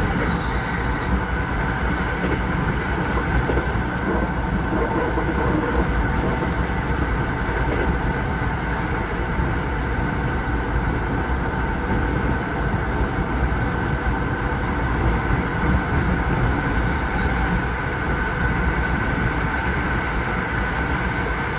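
Passenger train running at speed, heard from inside the carriage: a steady rumble with a constant high whine over it.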